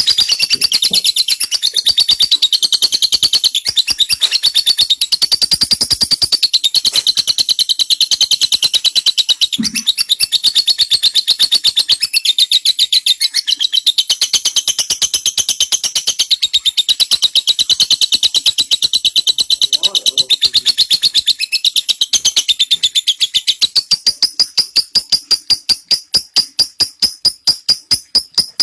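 Lovebird giving a long 'ngekek' chatter: a fast, unbroken string of sharp, high repeated chirps. The notes slow a little and settle on one pitch in the last few seconds.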